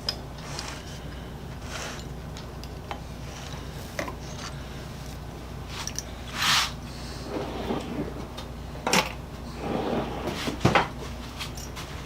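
Hand work with tools and metal parts at a workbench: scattered clicks and knocks, a short scrape, and rustling of parts being handled, over a steady low hum.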